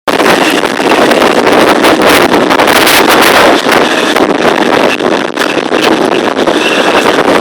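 Strong wind blowing hard across the microphone: a loud, steady rushing with many short gusts.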